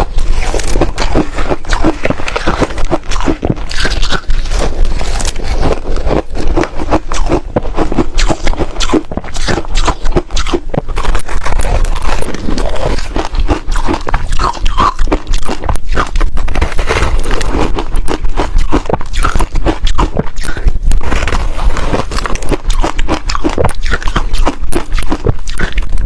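Ice being bitten and chewed close to the microphone: dense, continuous loud crunching and cracking.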